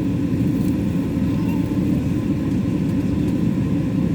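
Steady, loud low rumble of an airliner's engines and airflow, heard inside the cabin.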